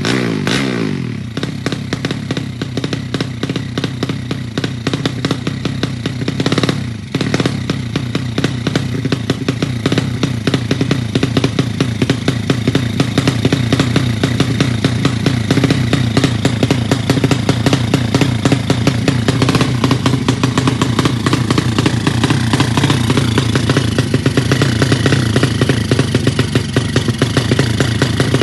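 Motorcycle engine, revived after standing unused for a long time, settling from a rev as its pitch falls in the first second, then idling steadily with a dense, rapid clatter. The level dips briefly about seven seconds in.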